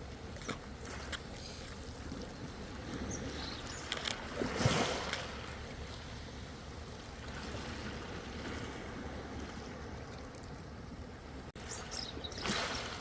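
Ocean surf washing in: a steady hiss of water that swells with a louder wave about four to five seconds in and another near the end, with small splashes and clicks between.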